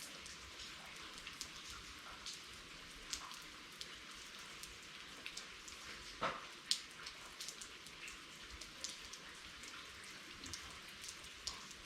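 Rain falling steadily, a soft hiss with many scattered drops ticking irregularly, and two louder taps a little past the middle.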